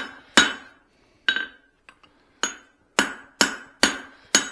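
Hand hammer blows on a hot steel hammer head on the anvil, smoothing out straight peen marks: about seven sharp, ringing strikes, evenly paced with a short pause in the middle.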